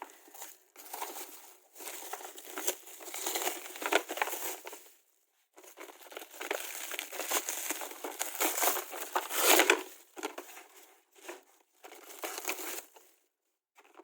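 Packaging being handled and unwrapped: a run of rustling and small crackles, with a short break about five seconds in, stopping about a second before the end.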